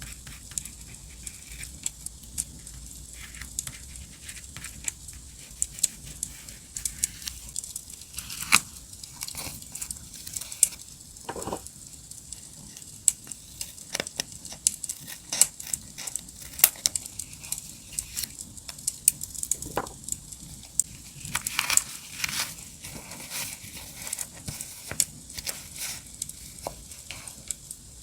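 Campfire crackling: irregular sharp pops and snaps over a soft steady hiss. Now and then paper and stickers rustle and crinkle as they are handled.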